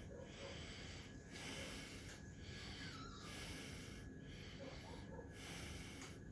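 Faint, noisy breathing from a pet animal close to the microphone, coming in even breaths of about a second each with short pauses between them.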